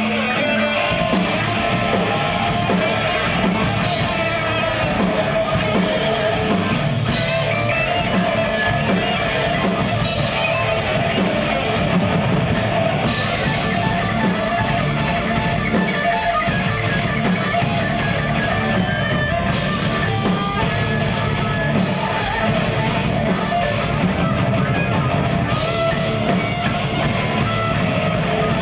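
Live progressive death metal band playing: distorted electric guitars over a drum kit.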